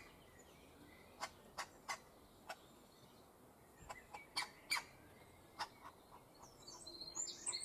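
A woodpecker tapping on wood with about ten faint single pecks at an uneven, unhurried pace, not a fast drum roll. Bird chirps come in near the end.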